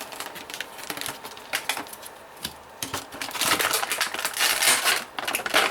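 Cardboard and plastic toy packaging being handled and opened by hand: scattered clicks and taps, then a denser stretch of crinkling and rustling from about three and a half seconds in.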